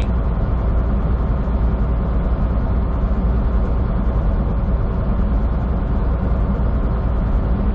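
Steady drone of a semi truck's diesel engine with road noise, heard from inside the cab while cruising on the highway.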